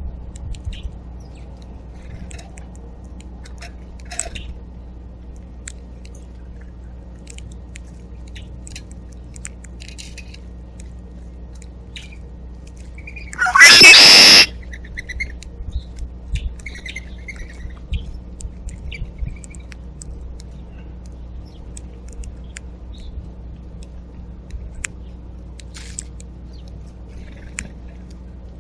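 Backyard birds calling: scattered short faint chirps, and about halfway through one very loud call lasting about a second, close to the microphone. A steady low hum runs underneath.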